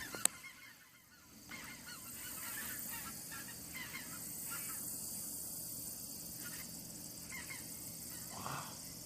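A large flock of geese flying over in formation, many birds honking at once. The honks start about a second and a half in, over a steady high hiss.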